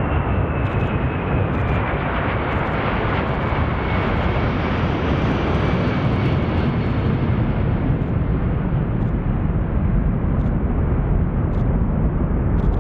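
Four turbofan engines of a low-flying C-17 Globemaster jet transport passing by, a loud steady rush with a faint whine that slowly falls in pitch; the sound swells and brightens about five to seven seconds in, then eases off.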